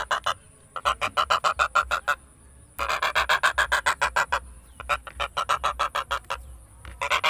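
A stork clattering its bill: rapid wooden rattling of about ten knocks a second, in several bouts of a second or two with short pauses between.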